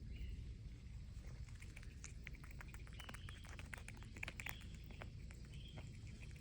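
Animal sounds: a run of quick, light clicks and patter through the middle, with a few faint, high, short chirps.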